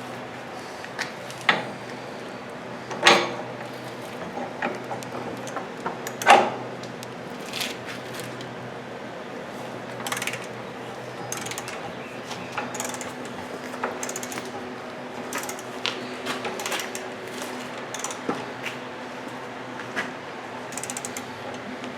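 Hand ratchet clicking in short runs as the bolts holding a VW transmission are drawn up, side to side, to close the gap before final torque. A few louder metallic knocks come in the first few seconds.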